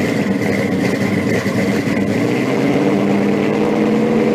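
A car engine running steadily at idle, with a thin steady whine above it.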